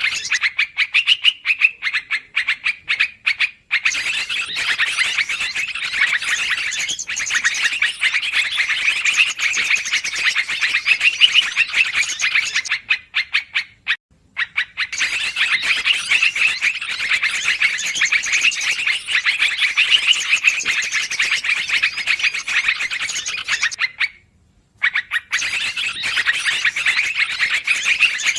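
Yellow-vented bulbuls (trucukan) calling busily: a dense, unbroken run of fast chirps and chatter, played as a bird-trapping lure call, with short breaks about 4, 14 and 24 seconds in.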